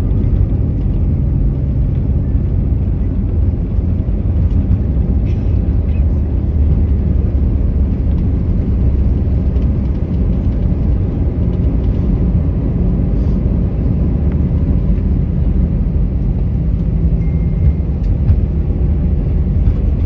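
Steady low rumble inside an Airbus A320 cabin as the airliner taxis after landing: engine and rolling noise with no change in level.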